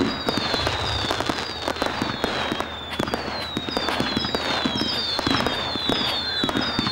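Firework display: a string of whistling fireworks, a short falling whistle about every half second, overlapping a dense crackle of sharp cracks and pops.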